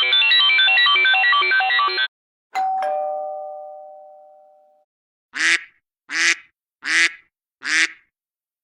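iPhone alert tones played back to back: a melodic synth ringtone ends about two seconds in, then a single two-note chime rings out and fades over about two seconds, then four short identical calls sound about 0.8 s apart.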